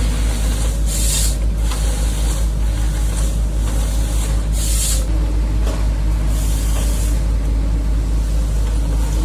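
Forestry harvester's diesel engine running steadily under load, with several short bursts of hiss.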